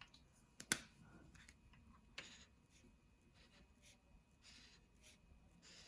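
Faint strokes of a marker colouring on paper, with two sharp clicks in the first few seconds.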